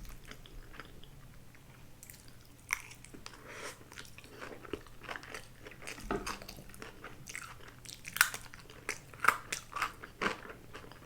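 Close-miked chewing and biting of a mouthful of grilled eel donburi: wet mouth clicks and smacks with crisp crunches, the loudest few about eight to ten seconds in.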